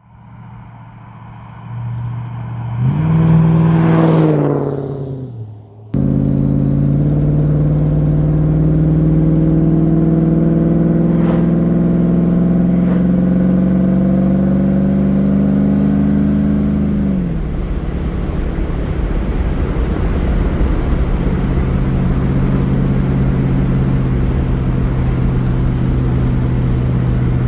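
Pontiac Firebird Trans Am WS6's swapped-in 5.3 L LM7 V8 revving briefly, then held at raised revs for about ten seconds before dropping back to a steady idle.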